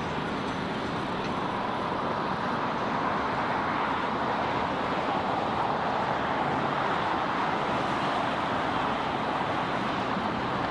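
Steady rushing noise of distant jet airliner engines, swelling gently through the middle and easing off again.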